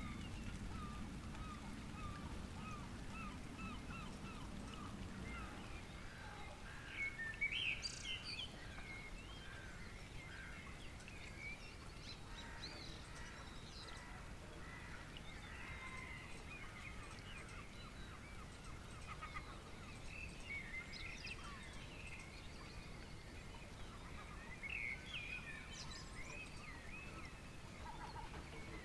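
Dawn birdsong: several birds chirping and whistling, with a louder burst of calls about seven seconds in. A low rumble underneath fades out after the first few seconds.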